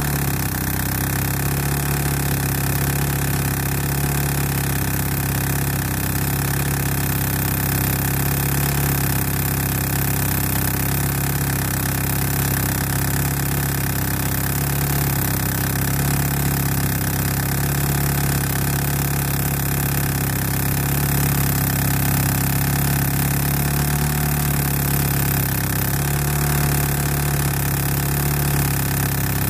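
1991 Talon TSi AWD's turbocharged 2.0-litre 4G63 four-cylinder idling steadily, an engine whose owner is chasing a tick noise.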